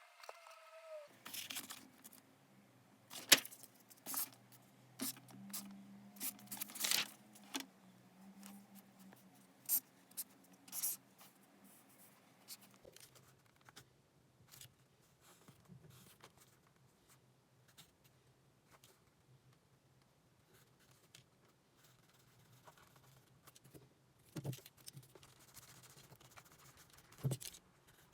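Small desk-work handling sounds: scattered taps, clicks and brief rustles of paper and stationery, busiest in the first half and again near the end, over a faint low hum.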